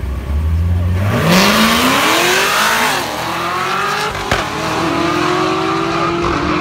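Supercharged 6.2 L V8 of a 2009 Cadillac CTS-V with long-tube headers and exhaust cutouts open, held on a low steady drone at the line, then launched at full throttle about a second in. The pitch climbs hard, drops at a gear change about three seconds in, dips again with a short sharp crack a little after four seconds, then climbs steadily as the car runs off down the drag strip alongside a second car.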